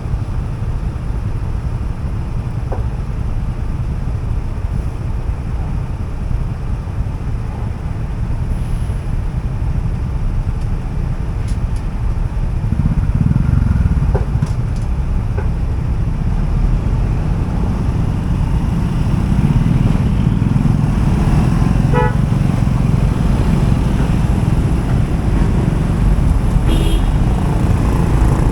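Road traffic heard from a moving motorcycle: a steady low rumble of engines and road noise, with a vehicle horn honking briefly late on.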